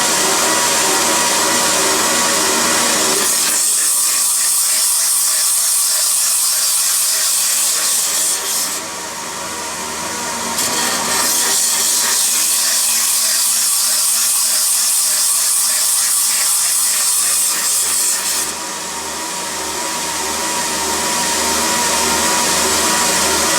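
Corner weld-seam grinding machine running, its abrasive hissing against the metal in two long passes of about six and eight seconds, with a steadier machine hum between them when the hiss eases.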